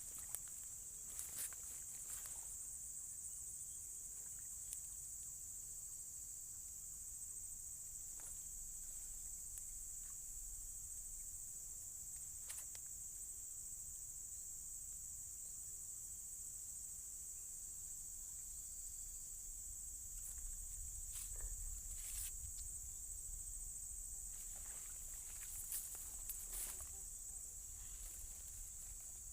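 Steady high-pitched insect chorus with no let-up, with a few faint clicks and taps scattered through it.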